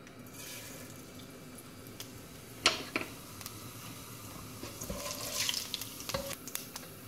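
Cumin seeds sizzling in hot oil in a saucepan, a steady crackling hiss that starts as the seeds go in. Two sharp knocks come about three seconds in, and near the end a wooden spatula scrapes and stirs the seeds.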